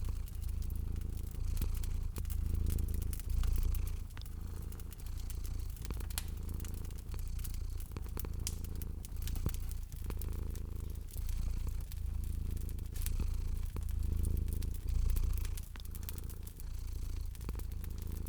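Domestic cat purring steadily, the low rumble swelling and fading about every two seconds with its breathing, over a wood fire crackling with scattered sharp pops.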